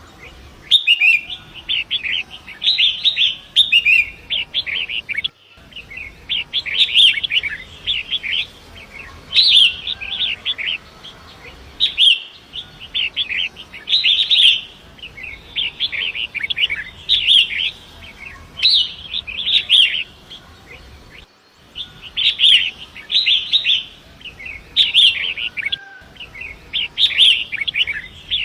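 Long-tailed shrike singing: bursts of rapid chattering phrases repeated every second or two with short pauses between, over a faint steady rush of flowing river water.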